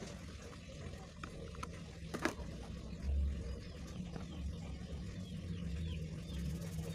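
Faint small-bird chirps over a steady low hum, with a single sharp tap about two seconds in.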